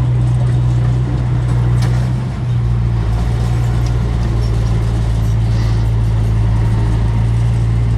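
Diesel engine of heavy earthmoving machinery running steadily up close, with a brief dip in level and a shift in its low hum about two and a half seconds in.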